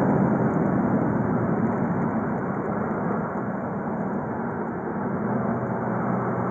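Volkswagen Golf Mk5 2.0 TDI (BKD) four-cylinder turbodiesel running while the car is driven, a steady mix of engine and road noise. It eases off slightly in the middle, and a steadier engine hum settles in near the end.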